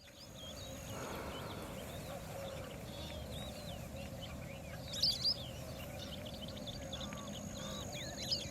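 Many small birds chirping and twittering over a steady low background noise, with two louder, sharp calls close together about five seconds in.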